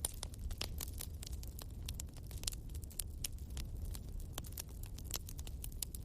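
Wood bonfire burning, with irregular sharp crackles and pops over a steady low rumble.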